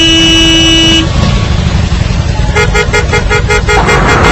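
A vehicle horn held in one steady blare that cuts off about a second in, then a rapid string of short beeps, about eight a second, for just over a second, over steady road noise.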